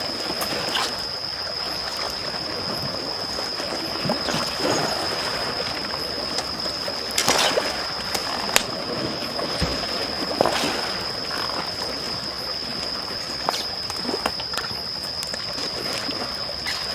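Small waves lapping at the shore while a wood campfire crackles, with sharp pops now and then. A steady high-pitched tone runs underneath.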